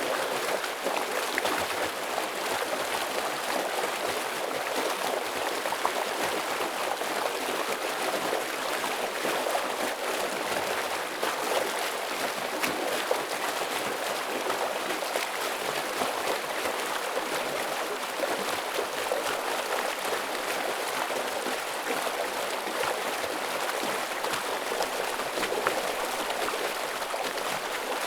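Forest stream flowing heavily over rocks: a steady rushing and splashing of water with no change in level.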